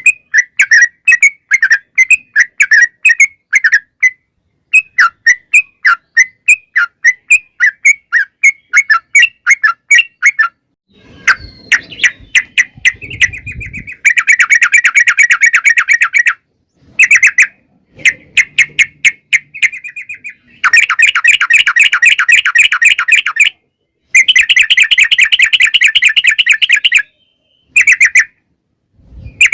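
Yellow-vented bulbul (trucukan) singing: quick bubbly chattering notes in a rapid series, breaking into long, fast rattling trills, the long 'ropel' phrases, three times in the second half.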